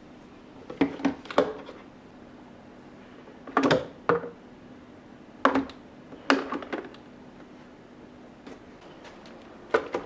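Plastic storage containers and food items being handled and set down in a refrigerator: a string of light knocks and clacks, a few clustered together, over a low steady hum.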